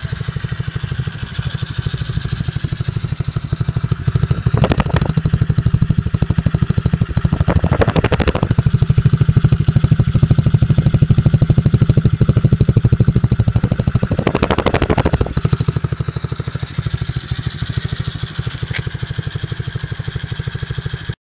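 88cc single-cylinder four-stroke pit bike engine running with a steady pulsing note. It grows louder for a long stretch in the middle, with a few short rushes of noise, then drops back before cutting off suddenly at the end.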